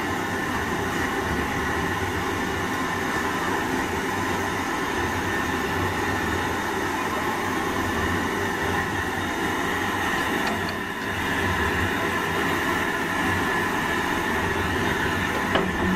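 Steam train hauled by an LMS Stanier Class 5 4-6-0 locomotive, a steady, unbroken train sound.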